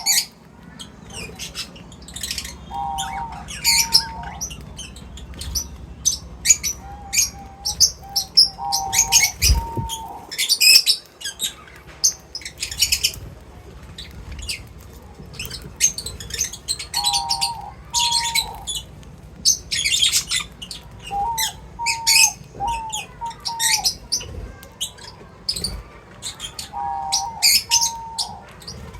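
A crowd of small birds chirping and twittering in quick, overlapping calls. A short, lower whistled phrase of two or three notes comes back every several seconds.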